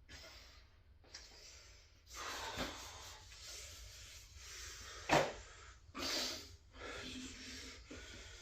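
Several short bursts of hissing breath or rustling, with one sharp knock about five seconds in, the loudest sound.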